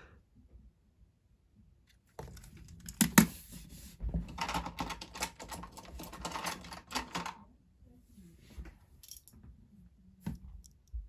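Plastic Lego pieces clicking and rattling as they are handled, with one sharp knock about three seconds in, a run of quick clicks after it, and a few scattered clicks near the end.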